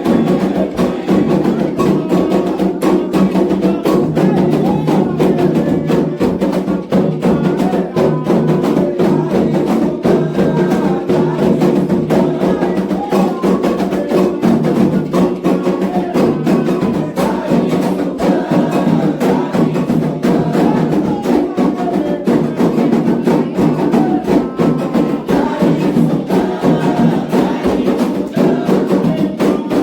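Candomblé atabaque drums playing a rum rhythm for the orixá Oxumaré, with a struck agogô bell keeping time and group singing over the drumming.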